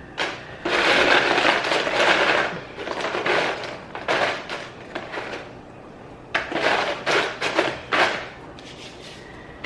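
Tortilla chips rustling and clattering as they are stirred and tossed in a bowl, in several bursts, the longest near the start.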